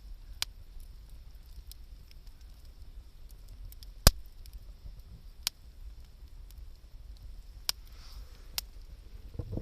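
Wood campfire crackling: a handful of sharp pops spaced a second or more apart, the loudest about four seconds in, over a low steady rumble.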